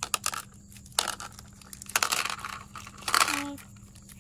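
Mentos candies being tipped from their roll into a dish: the wrapper crinkling and the candies clicking as they drop, in a few separate bursts.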